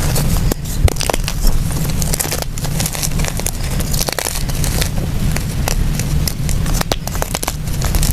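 Blocks of gym chalk crushed and crumbled by hand: a dense run of small crackling crunches, over a steady low rumble.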